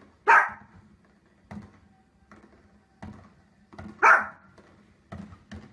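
A dog barking: two loud, sharp single barks about four seconds apart, with fainter short sounds in between.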